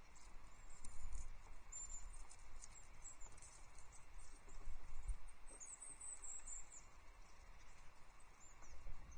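Small songbirds, tits, giving thin, high-pitched call notes in short chips, with a quick run of twittering about five and a half seconds in, over a low rumble.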